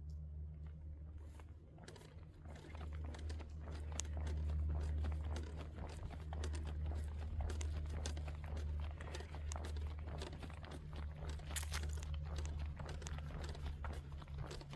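A hiker's footsteps on the trail: irregular crunching and crackling over a steady low rumble.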